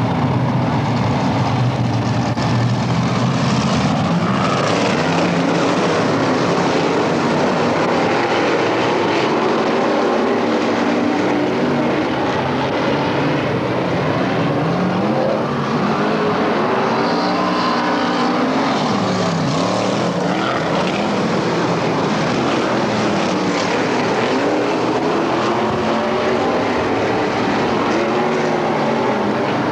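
Several dirt-track race car engines running loud and continuously, their pitch rising and falling over and over as the cars accelerate and lift off around the track.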